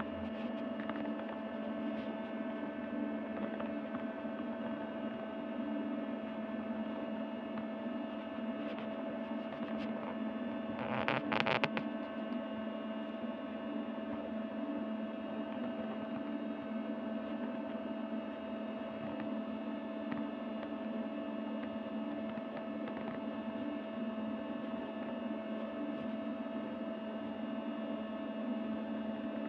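A steady hum made of several fixed tones, with one brief louder noise lasting about a second around eleven seconds in.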